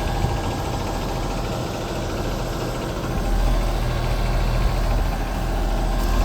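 Outdoor unit of a 5-ton Ruud Achiever 14 heat pump running in cool mode just after start-up, its compressor humming and condenser fan turning. The hum grows louder about three seconds in, and the fan motor rattles.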